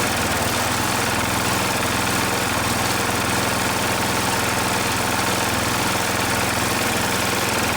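Bolens H16XL garden tractor engine running steadily.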